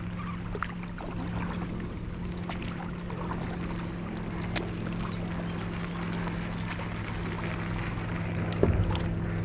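Stand-up paddleboard paddle strokes splashing and dripping in canal water, over a steady low hum. A louder thump comes near the end.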